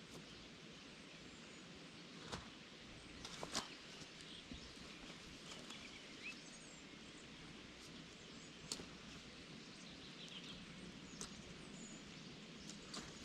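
Quiet outdoor ambience: a faint steady hiss with a few faint bird chirps and a handful of short, sharp clicks spaced a few seconds apart.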